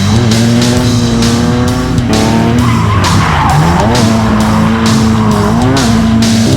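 A car drifting: its engine held at high revs, the pitch dipping and climbing again with the throttle a couple of times, over tyres squealing as they slide.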